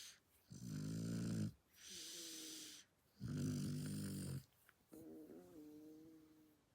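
Shar-pei dog snoring in its sleep: two loud, buzzing snores, each followed by a quieter breath with a thin whistle in it.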